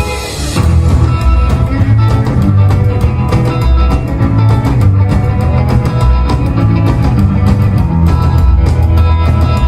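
Live rock band playing an instrumental passage: guitar over bass and a drum kit keeping a steady beat, with a bright cymbal-like crash at the very start.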